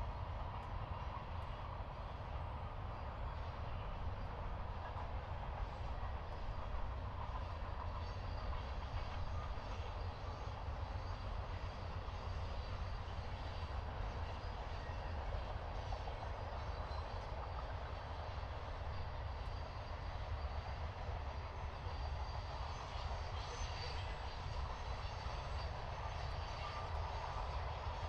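Norfolk Southern freight train rolling past: a steady rumble of steel wheels on the rails that does not let up.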